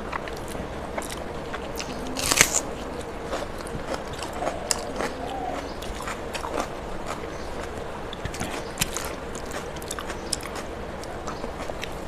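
Close-up chewing and eating of hand-mixed rice with katla fish, with many small wet clicks and crackles and one louder crunch about two seconds in.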